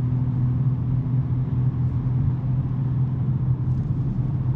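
Exhaust drone of a BMW M3 G80's twin-turbo inline-six through a SuperSprint non-resonated mid pipe, holding a steady low note while cruising at an even engine speed.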